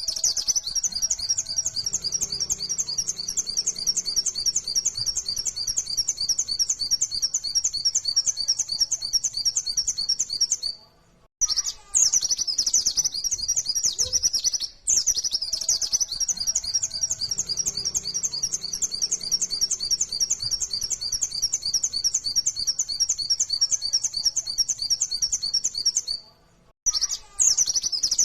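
White-eye (pleci) singing in long runs of rapid, high chirping notes in the fast 'nembak' style. The song breaks off briefly about 11 seconds in and again near the end.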